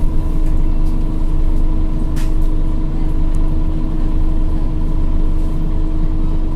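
Scania OmniCity city bus heard from inside the passenger cabin while driving: a steady low engine and road rumble with a constant hum, and a single brief click about two seconds in.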